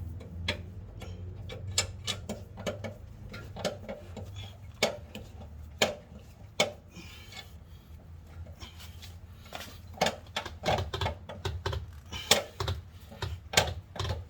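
Car jack being worked to lift the car: a series of sharp metallic clicks and clanks, coming thicker and louder in the last few seconds.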